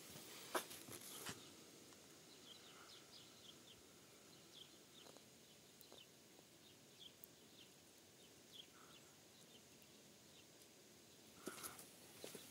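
Faint outdoor ambience with a small bird chirping in the distance, short high chirps at irregular intervals through the middle. A few light clicks near the start and a brief rustle and clicks near the end.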